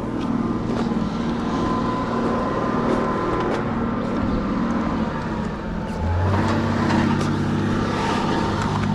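Truck engine running steadily, with a deeper hum coming in about six seconds in, over light rustling and taps.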